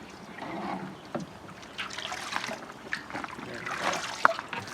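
Water sloshing and swishing in a scalding pot as a chicken carcass is dunked and moved about in the hot water to loosen its feathers, with a sharp knock near the end.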